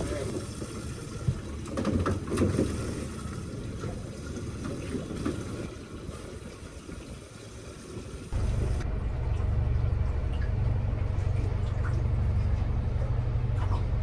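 Water sloshing with scattered knocks, then, after an abrupt change about eight seconds in, a steady low motor rumble.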